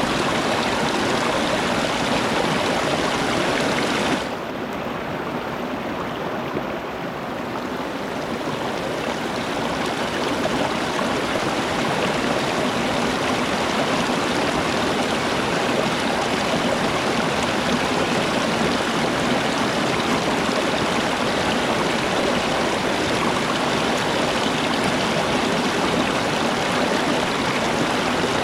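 Steady rushing of running water, a stream's continuous wash. About four seconds in it turns duller and a little quieter, then builds back over the next several seconds.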